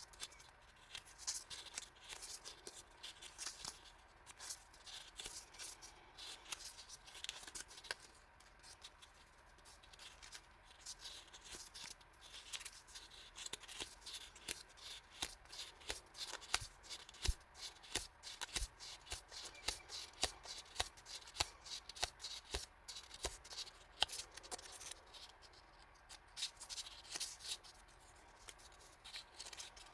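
Hands handling and unpacking paper stationery and its packaging: continual rustling and crinkling with many light taps and clicks.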